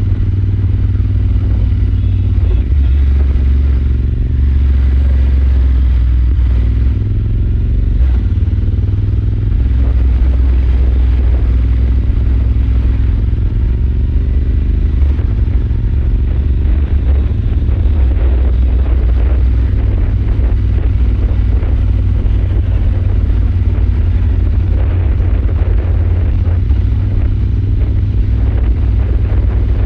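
Royal Enfield Super Meteor 650's 648 cc parallel-twin engine running steadily while cruising, its note rising and falling a little in places, over a deep rumble of road and wind noise.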